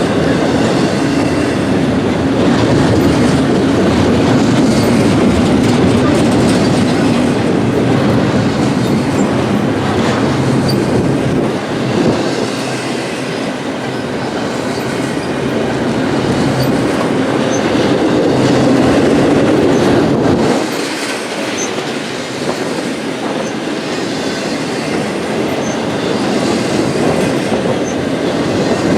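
Union Pacific freight train rolling past, its cars' steel wheels clicking over the rail joints in a continuous loud rumble. The rumble eases about twelve seconds in and drops again around twenty seconds.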